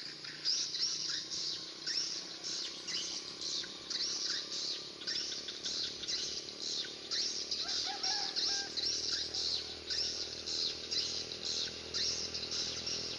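Bird chirping over and over, about two short high chirps a second, with another brief lower call about eight seconds in.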